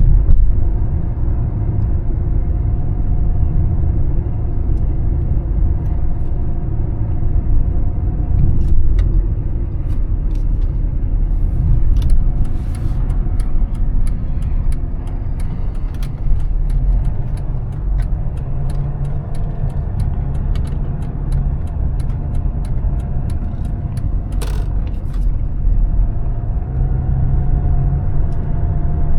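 2004 Mercedes-Benz E320 CDI's 3.2-litre straight-six turbodiesel running while the car drives, with a steady low rumble of engine and road noise. For much of the middle there is a series of regular ticks, about two a second.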